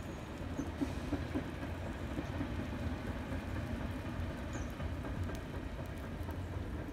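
Diesel multiple unit crossing a viaduct: a steady low rumble, with a few short clicks about a second in.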